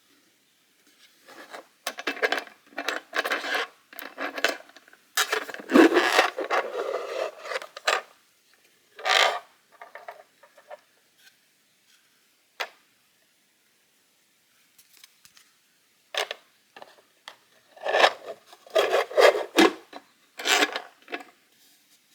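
A 3D-printed plastic box being handled: its parts scrape and rub together in bursts, with sharp clicks and knocks. The sounds come in two spells, with a quiet gap in the middle.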